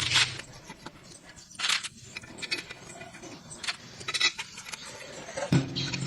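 Metal tools and parts clinking and scraping in irregular knocks during hands-on excavator repair work, with a low steady hum coming in near the end.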